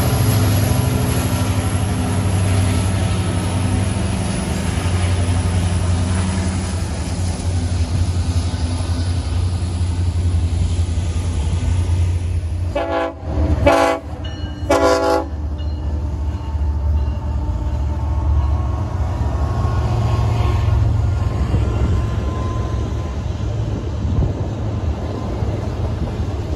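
BNSF diesel freight locomotives rumbling past. About halfway through, a train horn sounds two short blasts, and then more locomotives and double-stack intermodal cars roll by with a steady low rumble.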